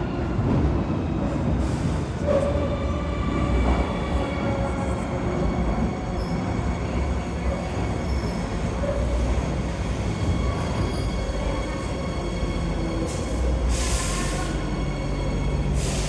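Madrid Metro Line R underground train running: a steady low rumble with thin high whining tones over it, and a short hiss near the end.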